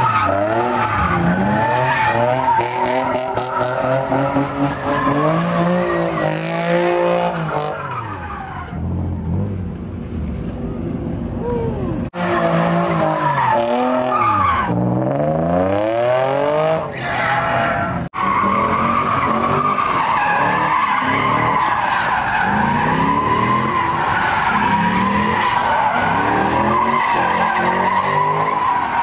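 Car engines revving up and down at high rpm with tires squealing, as cars do donuts at a street sideshow. The sound breaks off abruptly and resumes twice.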